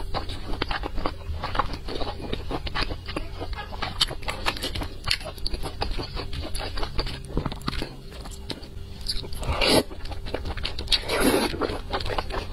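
A person chewing a mouthful of soft food in chili oil, miked close: a steady run of wet smacking clicks, with two louder, longer wet mouth sounds near the end.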